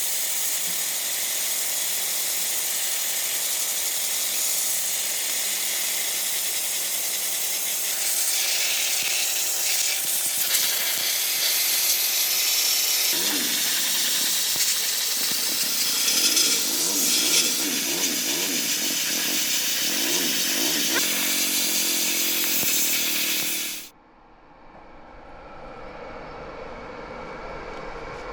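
Steady loud hissing noise with a wavering hum joining under it about halfway through. It cuts off abruptly a few seconds before the end, leaving a quieter sound that slowly builds.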